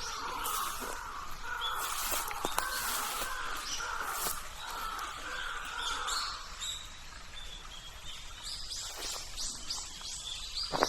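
Wild birds calling: a run of harsh, caw-like calls over the first six seconds or so, with short high chirps scattered throughout. A few footfalls on the trail near the end.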